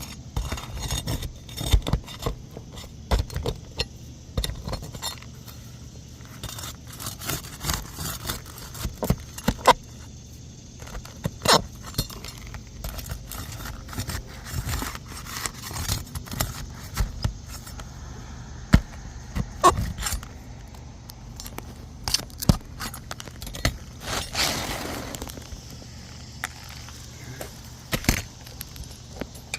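Nails being pried out of asphalt roof shingles: irregular metal clicks, clinks and knocks as the nails and shingle are worked loose, with a longer scrape a few seconds before the end.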